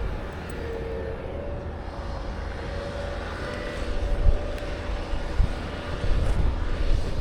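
Blizzard wind buffeting the microphone in uneven low gusts, with a few heavier thumps in the second half, over a faint steady engine-like hum.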